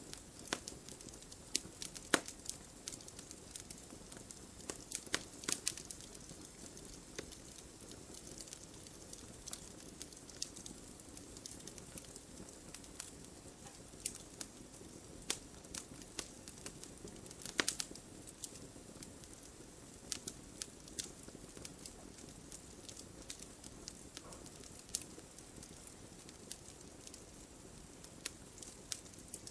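Wood fire burning in a fireplace: a soft steady hiss with irregular crackles and pops of burning logs, a few sharper pops standing out.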